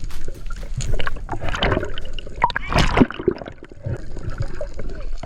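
Water gurgling and sloshing around a diver, with several sharp clicks and a loud splash-like burst about three seconds in.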